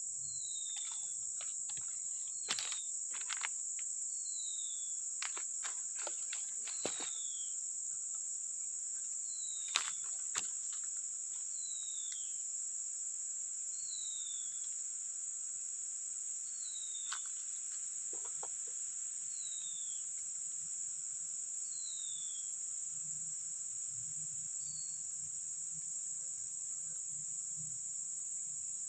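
Steady high-pitched chorus of crickets and other insects, with a bird's short falling call repeated about every two seconds. A few sharp clicks and knocks come in the first ten seconds.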